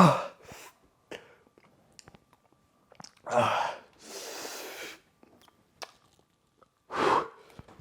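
A man breathing hard against the burn of very spicy hot sauce in his mouth: a sharp breath out at the start, another about three seconds in followed by a hissing breath lasting about a second, and one more near the end.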